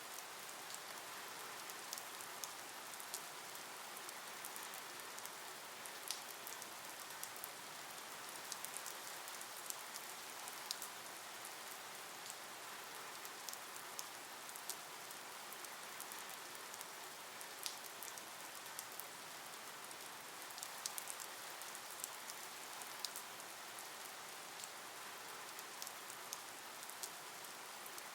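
Rain falling steadily on a surface: an even hiss scattered with many small, sharp drop ticks, with no thunder rumble.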